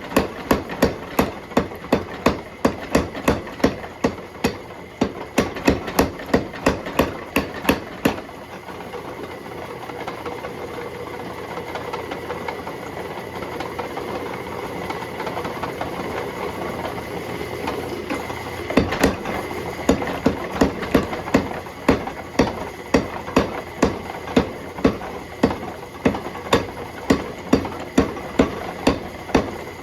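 Hammer blows forging a bar of alloy steel, struck in a steady rhythm of about two to three blows a second. About eight seconds in the blows stop and only a steady roar is left, then the hammering starts again a little past halfway.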